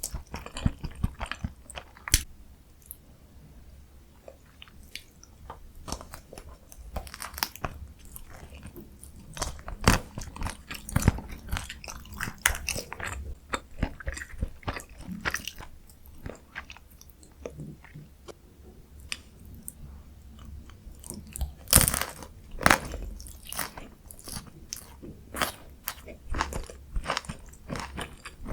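Close-miked eating sounds: chewing and biting with crunchy bites and many small wet clicks, as of a person eating noodles, kimchi and dumplings. Louder bursts of crunching come about a third of the way through and again about three quarters of the way through.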